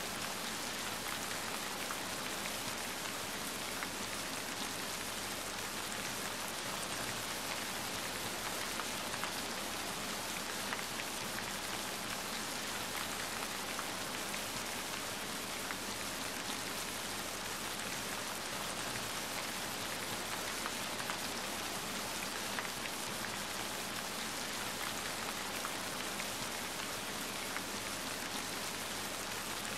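Steady rain falling on a surface: a continuous, even hiss with scattered faint ticks of individual drops.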